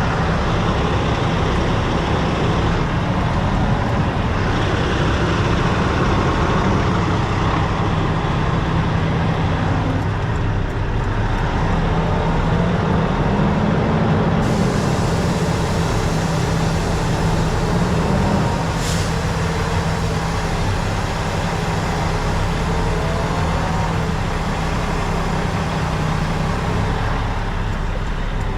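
Semi truck's diesel engine running steadily, its pitch rising a little several times with small changes in engine speed as the truck maneuvers at low speed toward a loading dock.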